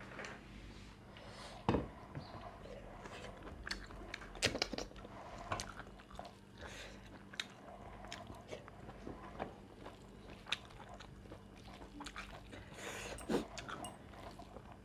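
Close-up eating sounds of a person chewing a meal of goat meat curry and raw salad. Steady chewing is broken by frequent crunchy bites and small clicks, with a few louder crunches about two, four and a half and thirteen seconds in.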